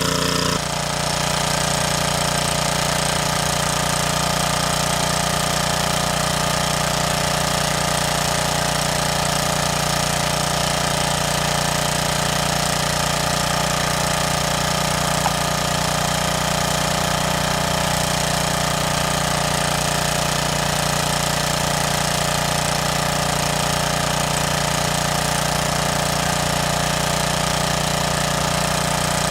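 A small engine running steadily at a constant speed, with a slight change in its sound about half a second in.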